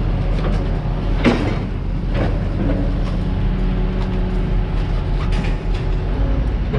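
An engine runs steadily under the scrap-yard noise, with occasional sharp metal knocks and clanks, the loudest about a second in.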